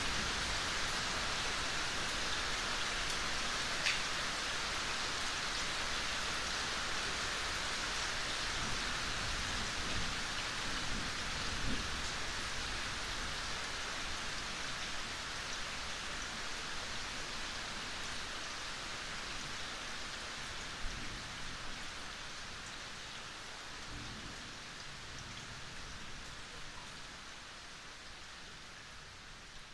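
Steady gentle rain falling, an even hiss with a few sharper drops now and then. It gradually fades out over the second half.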